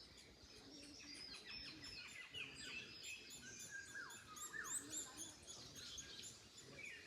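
Several songbirds singing and chirping at once, a dense overlapping chorus of quick downward-sweeping whistles and short chirps. A faint wash of wind in the trees lies underneath.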